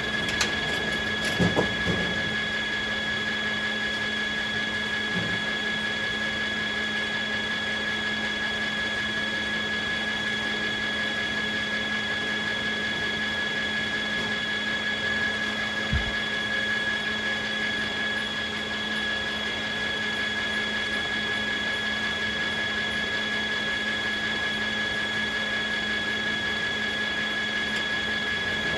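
Sawmill machinery running steadily with a constant high whine and a low hum, with a couple of knocks near the start and a single thump about halfway through.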